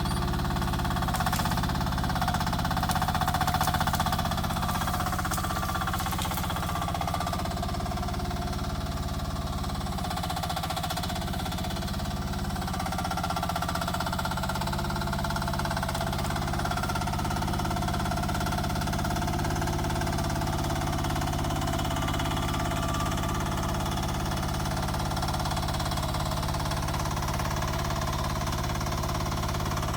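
Rippa R10 mini excavator's engine running steadily while digging, its pitch sagging briefly under hydraulic load about a third of the way in. A few sharp clanks and scrapes of the bucket in the first few seconds.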